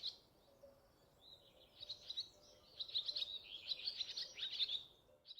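Birds chirping: a rapid run of short, high chirps, sparse at first and busiest from about two seconds in until just before the end.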